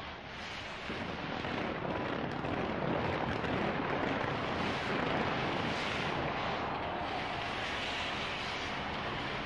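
Large fireworks display: a continuous barrage of bursts and crackling that merges into a dense rumbling roar, growing louder about a second in.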